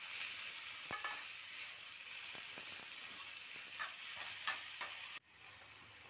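Paneer and onions sizzling in oil in a frying pan while a steel spoon stirs them, scraping and clicking against the pan a few times. The sizzle drops away suddenly about five seconds in.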